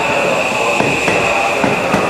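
Seibu 001 series Laview electric train pulling into a station, its wheels clacking over rail joints with a steady high squeal. A faint motor whine falls slowly in pitch as it brakes.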